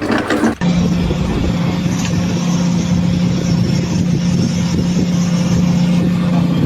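An engine running steadily at a constant pitch, a droning hum that starts about half a second in.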